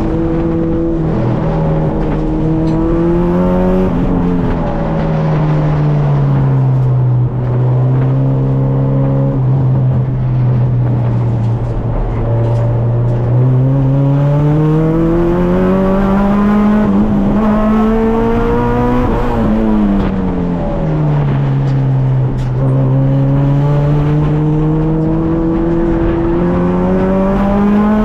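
Honda K24 2.4-litre inline-four in an EK Civic, running hard and easing off on a warm-up lap. The engine note climbs, falls away and holds low for several seconds. It then climbs long and slowly, drops quickly, and climbs again near the end.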